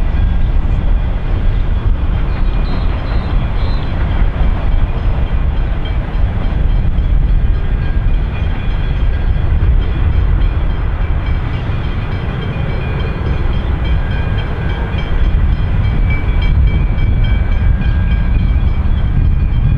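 A train passing close by: a steady, loud rumble of wheels on the track, with thin high steady tones over it.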